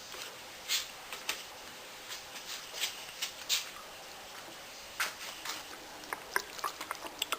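Gasoline being poured from a gas can into a small engine's fuel tank: irregular clicks and knocks from the can and spout, with faint liquid sounds.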